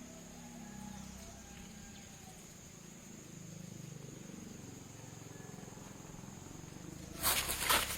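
A steady high insect chirring over a low rumble. About seven seconds in, loud crackling and rustling starts.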